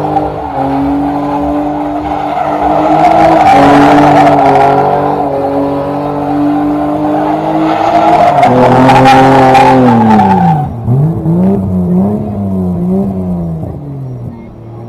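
BMW E30 engine held at high revs while the rear tyres spin and squeal. About ten seconds in, the tyre noise stops, the revs drop, and the engine is blipped a few times.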